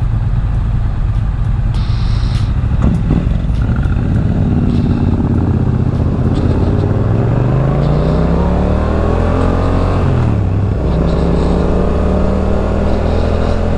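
Motorcycle engine pulling away and accelerating through the gears. Its pitch climbs for a few seconds, drops at a gear change about ten seconds in, then holds steady until it drops again at another shift near the end. Steady wind and road noise sit underneath.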